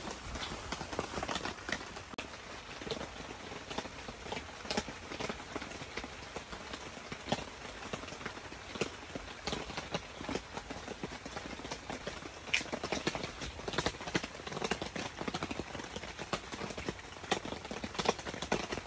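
Steady rain falling on a tent shelter, heard as a dense stream of sharp, irregular drop hits.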